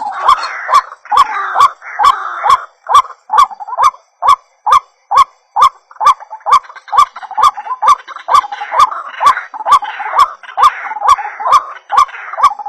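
White-breasted waterhen (ruak-ruak) calling over and over, a little over two hooked notes a second, with a sharp click on each note.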